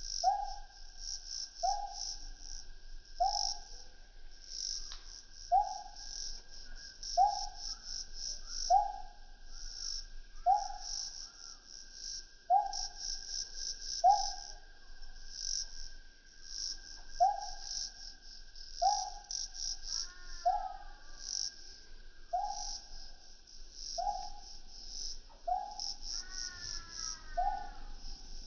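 Night chorus of crickets and other insects, with a high pulsing trill and a steady thin buzz. Through it an animal gives a short, slightly falling call about once a second, and a couple of brief gliding calls come near the end.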